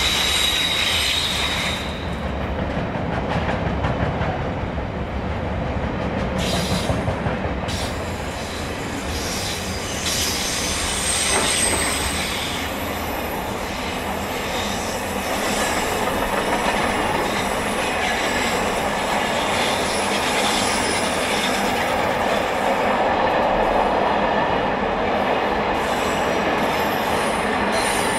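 Container flat wagons of an intermodal freight train rolling past: a steady rumble and clatter of wheels on rail. A thin high wheel squeal comes and goes on the curve, strongest in the first two seconds and again around the middle.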